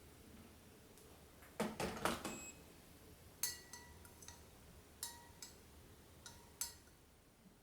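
Tableware being handled while making coffee: a short clatter, then about five light clinks that ring briefly.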